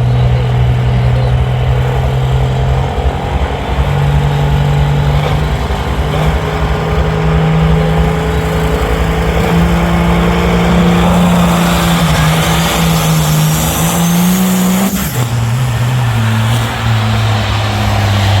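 Pro stock pulling tractor's diesel engine running flat out under load, loud and continuous, its pitch climbing in steps. About 15 seconds in the pitch drops sharply as the throttle comes off at the end of the pull.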